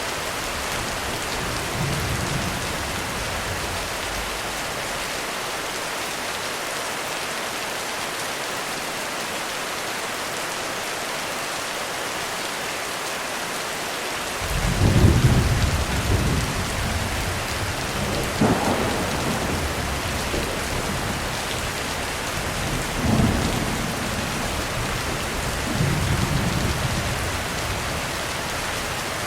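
Heavy rain hissing steadily on a roof. About halfway through, thunder starts rumbling and rolls on in several low peals, the first the loudest.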